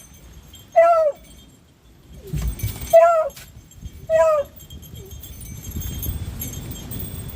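Hunting dog giving three short, high yelps about a second apart, each bending slightly down in pitch, with a low rumbling noise underneath in the second half.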